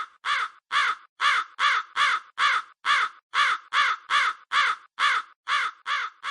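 Crow cawing over and over, about three caws a second in an even, unbroken rhythm.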